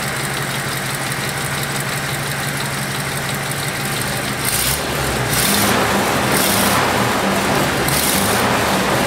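1941 Packard straight-eight engine idling steadily, nice and quiet on its newly installed lifters, growing a little louder about halfway through.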